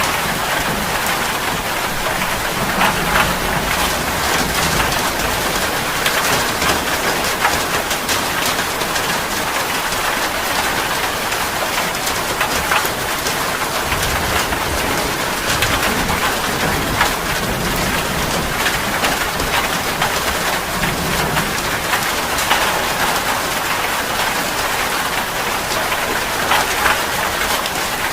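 Heavy rain falling steadily, a dense even hiss with many separate drop hits.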